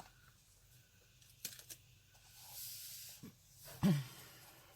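Quiet handling noises as a cardboard ink box is opened and the bottle taken out: a light click, then a soft rustle, and a brief low hum-like sound just before the end.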